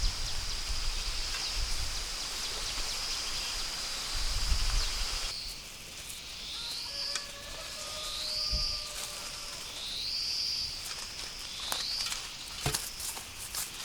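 Outdoor ambience: a steady high-pitched insect drone for the first few seconds, then, after a cut, a bird repeating a short rising call about once a second. A few sharp snaps come near the end.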